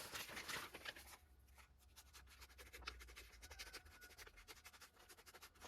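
Faint, quick scratchy rubbing and clicking from a strip of anti-squeak tape being cut and handled.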